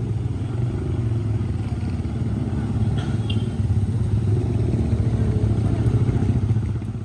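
Heavy tank truck's diesel engine working at low revs under load on a steep climb: a deep, pulsing rumble that grows a little louder over the second half.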